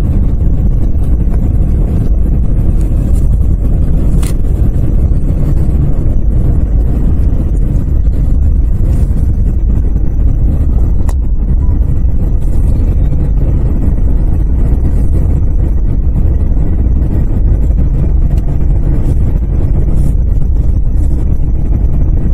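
Vehicle driving on a snow-covered highway, heard from inside the cabin: a steady low rumble of engine and tyre noise.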